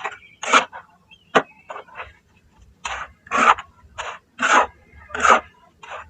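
Grainy, crumbly shapes being crushed and crumbled by hand: about a dozen separate crunches, some short and sharp, others a little longer, with brief pauses between them.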